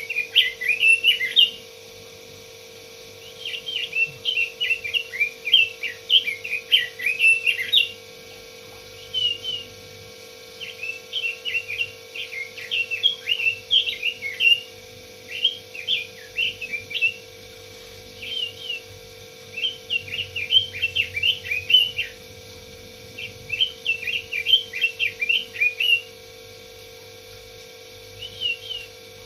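Pekin robin (red-billed leiothrix) singing, in fast warbling phrases of one to four seconds with short pauses between, over a steady hum.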